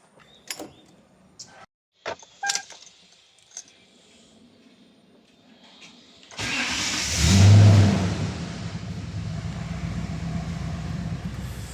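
A few light clicks, then the Toyota Tundra's V8 engine starts about six seconds in, flares briefly and settles into a steady idle.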